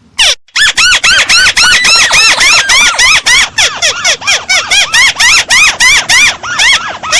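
Played-back lure call of a crake (burung tikusan): a fast, even run of short, arched, rising-then-falling whistled notes, about five a second. The run starts about half a second in, after a single note.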